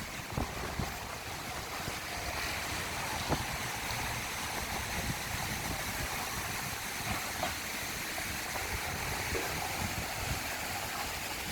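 Steady rushing noise with uneven low rumbling from wind on the microphone, and a few faint ticks.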